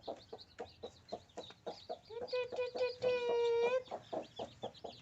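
Native village hen clucking rapidly with her newly hatched chicks peeping high around her; about three seconds in comes a louder drawn-out squawk of under a second.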